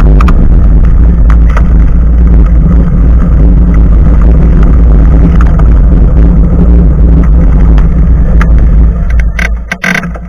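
Heavy wind buffeting on an action camera's microphone on a moving bicycle, a loud low rumble with scattered clicks and knocks from the ride. About nine seconds in it suddenly drops away as the bike slows.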